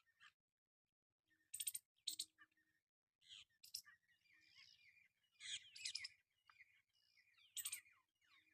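Parrot calling in short, harsh squawks and chirps, in separate bursts of one or two calls with gaps between.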